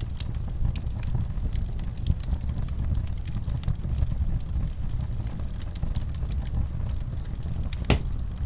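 Wood fire in a fireplace crackling: a steady low rumble of flames under frequent small pops and snaps, with one louder pop near the end.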